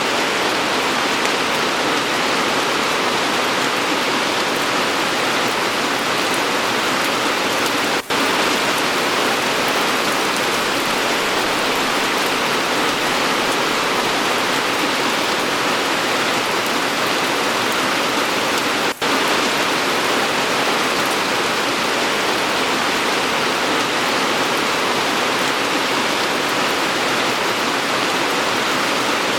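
Steady, dense rain falling on surfaces, an even hiss with no thunder, broken by two momentary drops in level about 8 and 19 seconds in.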